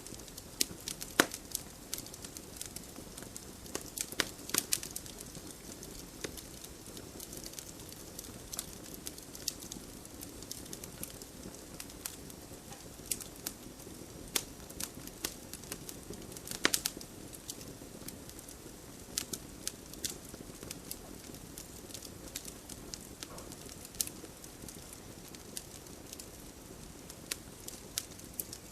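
Campfire crackling, with irregular sharp pops and snaps over the low, steady hiss of the burning wood; a few pops stand out louder.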